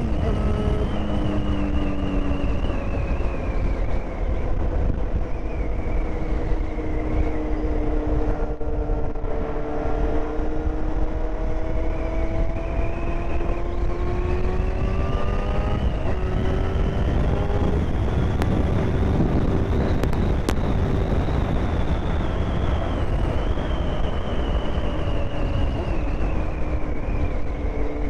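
Yamaha FZ6's 600cc inline-four engine running under way, its note slowly falling and rising with speed and stepping up about halfway through, over heavy wind rumble on the microphone.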